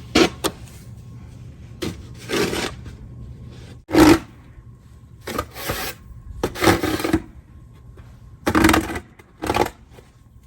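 An irregular series of short scrapes, about eight in ten seconds.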